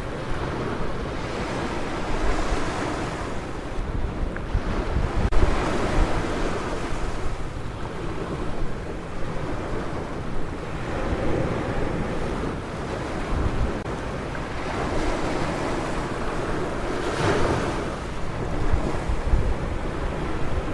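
Ocean waves breaking and washing on a beach, the surf swelling and fading every few seconds, with wind buffeting the microphone.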